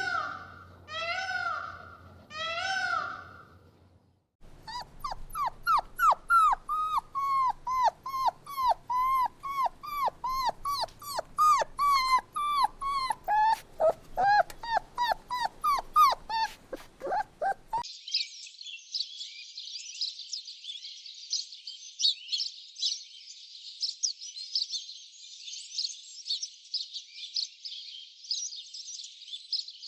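Animal calls in three parts: a few drawn-out calls, then a rapid run of short high yelps, about three or four a second, from about four seconds in until about eighteen seconds in, then a dense, steady, high chirring chorus.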